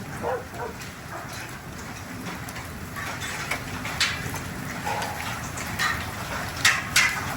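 Hail and rain hitting a roof: a steady hiss of rain with sharp cracks of individual hailstones. The loudest hits come about four seconds in and again near the end.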